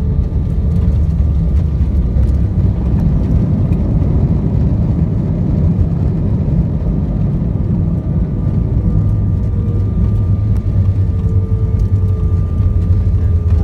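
Go Air Airbus A320-family jet airliner during landing: a steady low rumble of engines and airflow, with faint steady whining tones over it.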